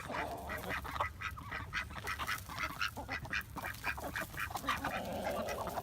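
A flock of chickens and ducks eating scattered feed: many short, quick sounds from the birds, with a raspy duck quack at the start and a longer one, about a second, near the end.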